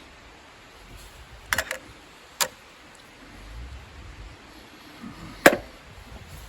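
A few sharp clicks and knocks: a quick cluster about a second and a half in, a single one just under a second later, and the loudest about five and a half seconds in, over a faint low rumble.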